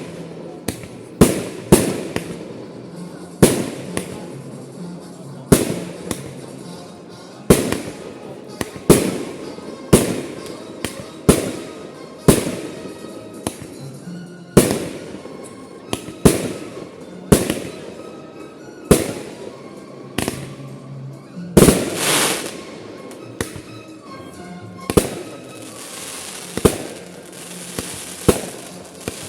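Aerial fireworks shells bursting in a steady series of sharp bangs, one every second or two, each trailing off briefly. About 25 seconds in there is a stretch of dense crackling.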